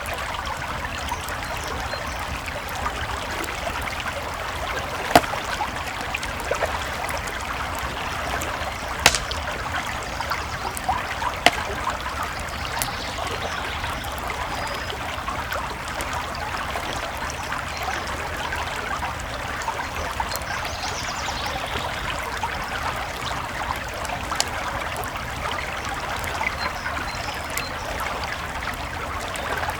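Campfire crackling and popping over a steady flowing creek, with three sharper pops about five, nine and eleven seconds in.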